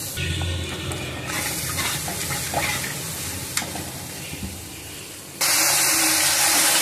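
Wet onion-and-spice masala paste sizzling as it fries in a kadhai, with a flat metal spatula scraping and tapping against the pan a few times. About five seconds in, the sizzle suddenly becomes much louder.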